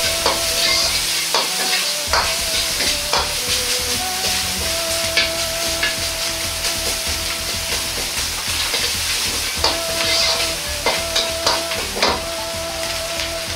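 Ground meat sizzling as it is stir-fried in a wok over a gas burner until no red remains, with a metal ladle scraping and knocking against the wok now and then.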